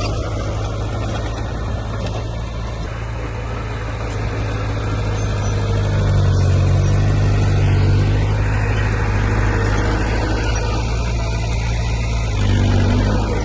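Heavy diesel engine of earthmoving machinery running with a steady low hum, swelling in loudness around the middle and briefly again near the end as it works under more load.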